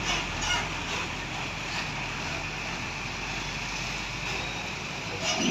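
Steady road noise from passing traffic: an even rushing hiss with no clear engine note.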